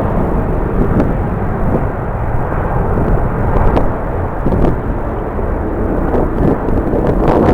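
Jet airliner engine noise mixed with strong wind buffeting the microphone, heard as a loud, uneven noise with its weight in the low range.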